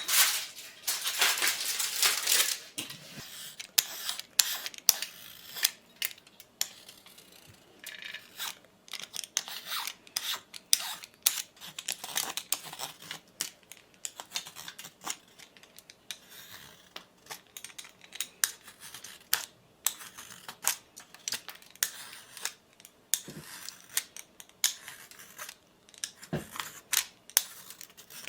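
Close handling sounds: a rustling, tearing noise in the first couple of seconds, then many irregular sharp clicks and snips.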